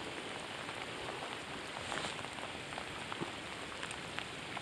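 Steady heavy rain falling on the lake surface and the bank, with scattered sharper drop ticks.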